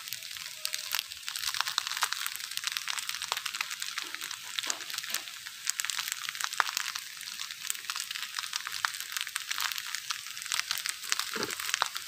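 Fried rice frying in a hot wok: a steady, dense crackling sizzle with scattered sharper clicks, and the scrape of a metal spatula stirring.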